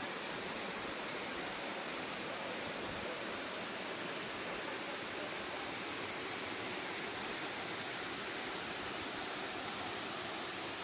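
Waterfall or fast water rushing: a steady, even hiss of falling water with no change.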